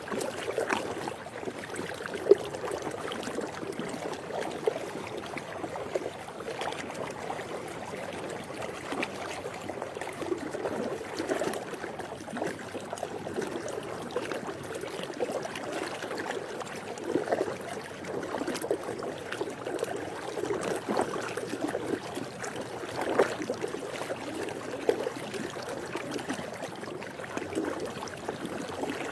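Swimming-pool water lapping and trickling: a continuous wash of small, irregular splashes.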